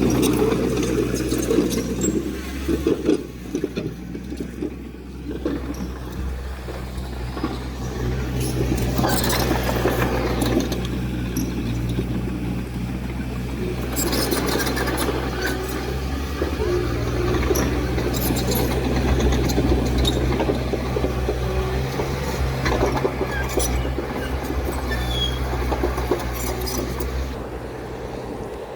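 Heavy earthmoving machine's diesel engine running steadily, with scattered metallic clinks and clanks. It gets somewhat quieter near the end.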